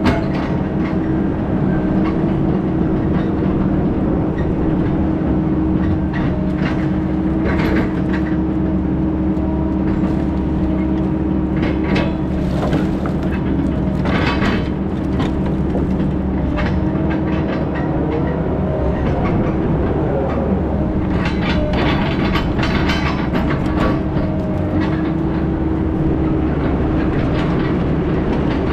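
Heavy diesel engine of logging equipment running steadily at a constant speed, with scattered rattles and knocks over it.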